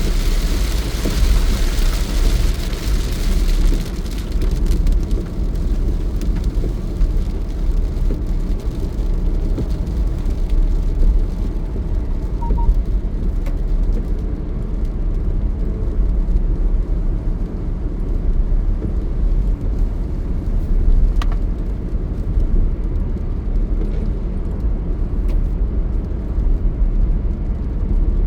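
Car driving on a road: a steady low road and engine rumble, with a hiss that is strongest in the first few seconds and then fades.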